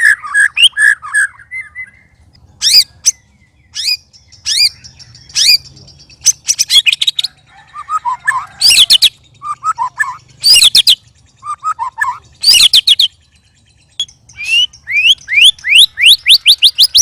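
White-rumped shama (murai batu) singing in full voice: phrases of sharp, sweeping whistled notes broken by short pauses, lower warbled phrases about halfway through, and a fast run of rising notes near the end.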